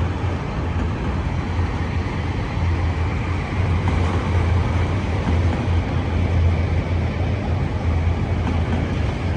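A string of empty autorack freight cars rolling past close by, a steady rolling noise of steel wheels on rail, heaviest in the low end.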